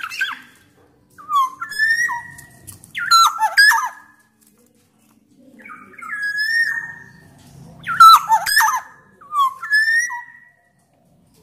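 Black-naped oriole singing loudly: phrases of clear whistled, gliding notes mixed with harsher, rasping notes, the pattern repeating about every five seconds.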